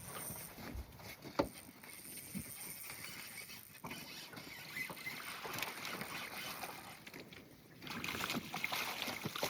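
Scattered light knocks and rustling handling noise aboard an aluminum fishing boat, over a steady hiss.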